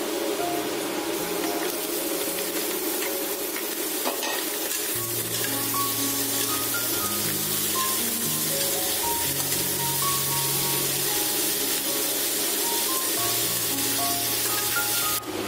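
Raw chicken pieces sizzling in hot oil in a wok with sliced onions and garlic, being stirred with a metal slotted spatula, a steady frying hiss. Background music with a melody plays over it, and a bass line comes in about a third of the way through.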